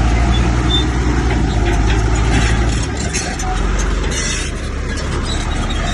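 Komatsu bulldozer's diesel engine running, a steady low drone that eases off about three seconds in, with scattered metallic clanks.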